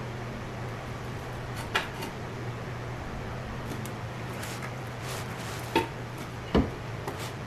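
A few sharp metallic clinks and knocks, a loud one near the start and two close together near the end, from tools and stainless steel bolts being handled while fitting a car exhaust. Under them runs a steady low hum.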